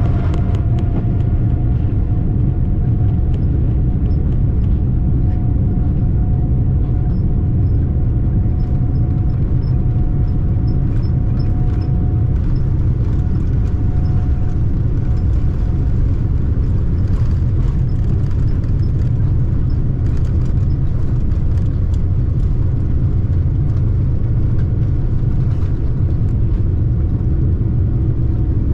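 Boeing 787-9 airliner heard from inside the cabin: a loud, steady rumble of engines and rushing air, with a steady engine whine running over it.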